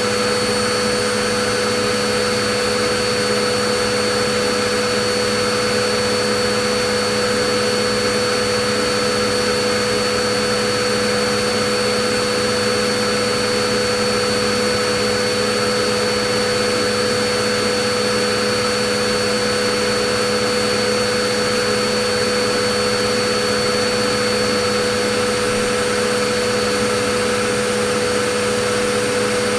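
Vacuum cleaner running steadily: an unchanging motor whine and airflow rush with constant tones on top.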